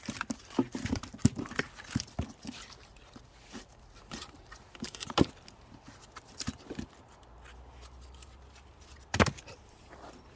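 Irregular knocks and clicks, thick in the first few seconds, with two louder sharp knocks about five and nine seconds in.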